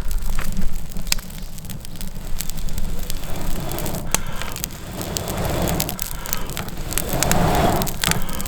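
Firewood burning in a homemade wood stove, crackling and popping in sharp, irregular snaps over a steady low rush of the fire.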